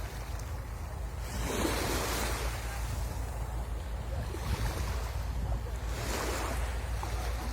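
Sea waves breaking and washing up the shore, the surf swelling in several surges, with wind rumbling on the microphone underneath.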